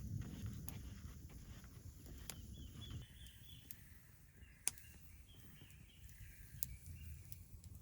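Faint outdoor ambience: a low rumble with a few sharp ticks, and faint twittering birdsong from about three seconds in.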